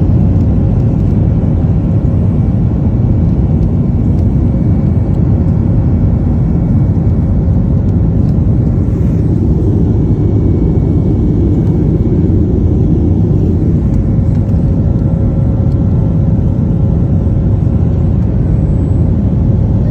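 Airliner cabin noise during the climb after take-off: a loud, steady rush of jet engines and airflow, strongest in the low range, with a faint steady hum above it.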